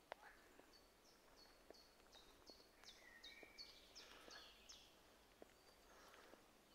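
A small songbird singing faintly in woodland, a run of about a dozen short high notes at roughly three a second. Faint footsteps and twig crackles of someone walking through undergrowth.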